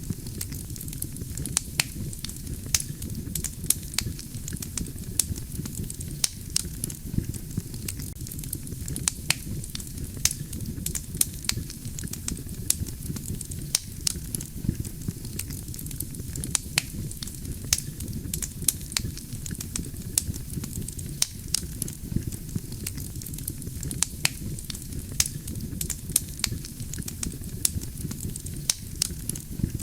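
Wood campfire burning, with a steady low rumble of flames and frequent sharp crackles and pops of burning logs.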